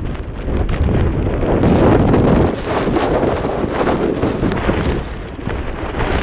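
Blizzard wind buffeting the microphone, a loud rumbling that swells and dips in gusts.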